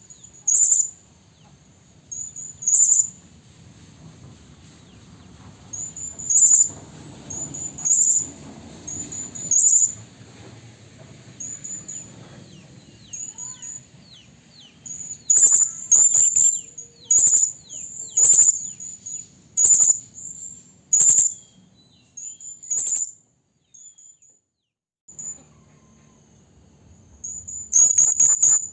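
Serindit (hanging parrot) lure calls: short, sharp, very high-pitched notes repeated irregularly, singly and in quick clusters, with a brief pause about two-thirds of the way through.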